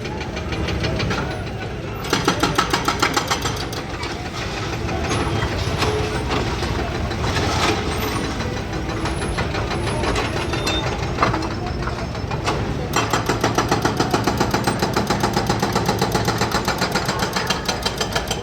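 Street traffic: vehicle engines running close by with a pulsing throb, mixed with people's voices.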